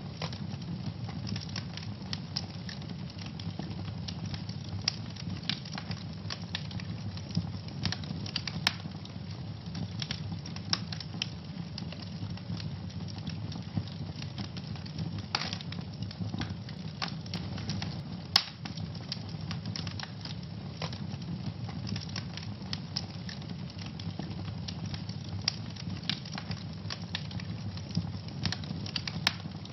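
Wood fire burning in a fireplace with a steady low rumble of flames and frequent irregular crackles and pops, one sharper pop about two-thirds of the way through.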